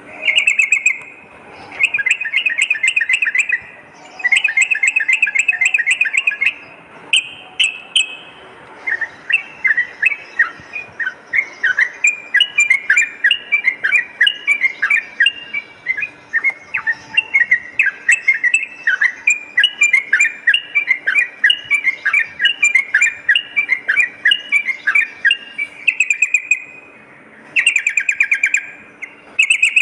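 Yellow-vented bulbul song: short bursts of bubbly chattering notes, then from about nine seconds in a long run of rapid warbling phrases, the drawn-out 'ropel' song, which breaks off shortly before the end and returns in short bursts.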